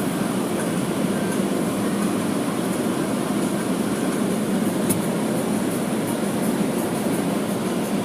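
Car wash equipment running with a steady rushing noise, with a faint click about five seconds in.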